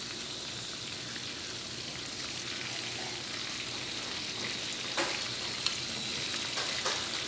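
Marinated chicken pieces sizzling and crackling as they shallow-fry in hot oil in a pan. A couple of sharp clicks about five seconds in are the metal tongs against the pan as the pieces are turned.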